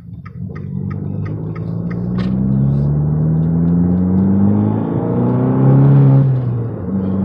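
2015 Fiat 500 Abarth's turbocharged 1.4-litre four-cylinder accelerating hard under boost. The engine note climbs steadily, breaks briefly about five seconds in, climbs again, then falls away near the end as the throttle comes off.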